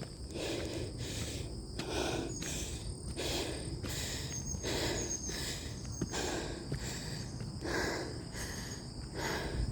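A person breathing hard while climbing stairs, a loud puffing breath about once a second. Insects buzz steadily in the background.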